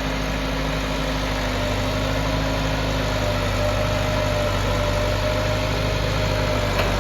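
Massey Ferguson 385 tractor's diesel engine running steadily at an even speed.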